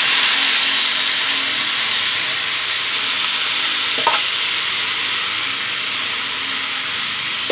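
Shredded banana blossom sizzling steadily in a hot frying pan as it is scraped in from a pot with a metal spoon, with one short knock about four seconds in.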